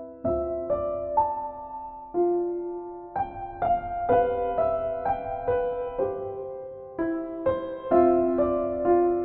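Slow, gentle solo piano music: single notes and soft chords struck about once or twice a second, each left to ring and fade.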